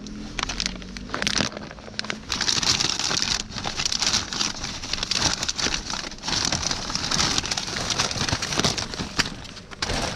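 Plastic bag of unsalted peanuts being crinkled and worked open: a dense crackling rustle with many small clicks that swells about two seconds in and rises and falls as the bag is handled.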